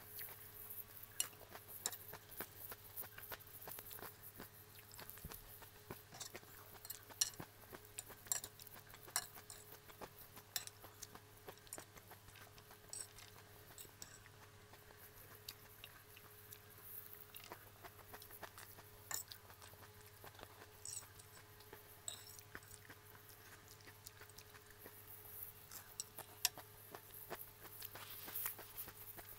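Close-up chewing of crisp shredded salad: wet mouth clicks and small crunches scattered irregularly throughout.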